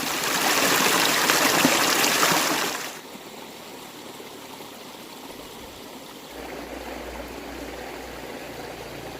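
A loud, even rushing noise like running water for about three seconds, then continuing much softer, with a low hum coming in about six seconds in.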